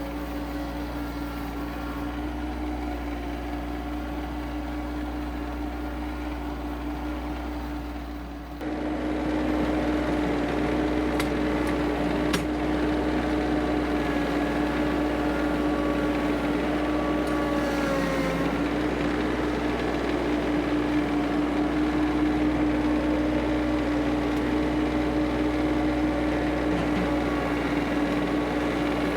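Kioti CS2520S subcompact tractor's diesel engine running at a steady speed. It gets louder about eight and a half seconds in, and its pitch sags briefly about eighteen seconds in.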